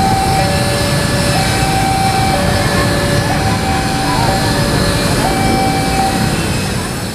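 Train passing close by with a loud, steady rumble and rush of wheels on rail. Over it an electronic warning signal alternates between two tones, each held about a second. The sound starts to fade near the end.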